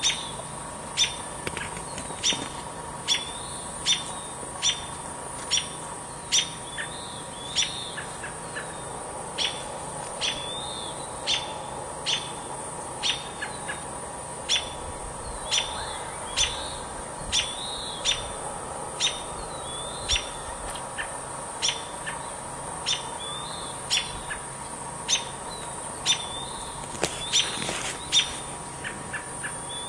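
A small bird's short, sharp call, repeated steadily about every three-quarters of a second.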